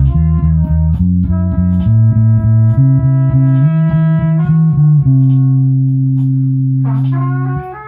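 Guitar and bass playing a loose riff of low notes in a jam. One note is held for a few seconds, then there is a brief break before the next phrase starts near the end.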